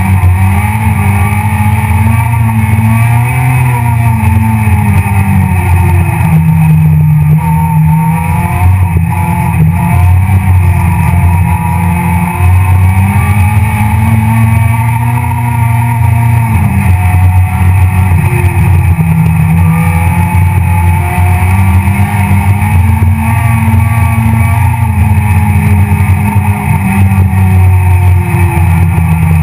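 Loud Citroën C2 R2 Max rally car engine heard from inside the cabin, revving hard, with the revs climbing and dropping repeatedly as the car is driven flat out.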